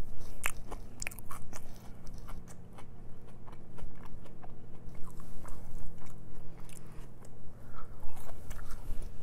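Close-miked chewing of crinkle-cut french fries: crunching with many short mouth clicks, busiest in the first second or so and again near the end.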